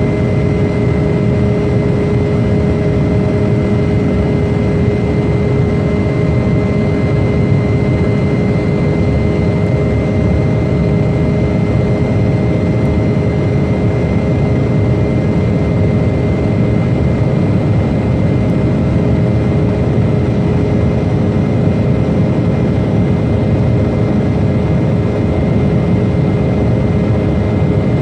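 Jet airliner engines running steadily: a loud, constant low rumble with a steady whine over it that neither rises nor falls in pitch.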